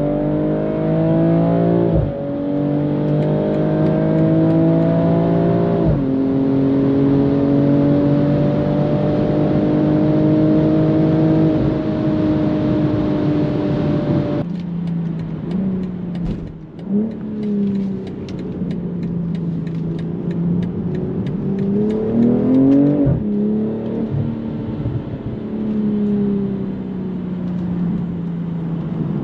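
BMW M440i's 3.0-litre turbocharged inline-six under hard acceleration, climbing in pitch with quick automatic upshifts about two and six seconds in, then pulling steadily before the throttle is lifted about halfway through. After that it cruises at lower load, with a brief surge and another upshift later on.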